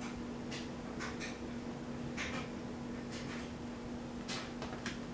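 12-inch Climate Keeper table fan running on low speed: a steady electric motor hum, with short sharp ticks coming at irregular intervals.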